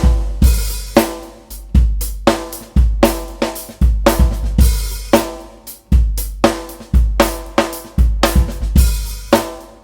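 Drum kit playing a groove, built around a small 18-inch free-floating kick drum with a big sound: deep kick notes that ring on low after each stroke, under snare hits and hi-hat and cymbal wash.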